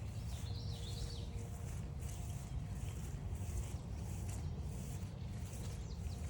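Footsteps on a trail at an even walking pace, each step a soft crunch, over a steady low rumble. A songbird sings a short warbling phrase about half a second in, and a single falling bird note comes near the end.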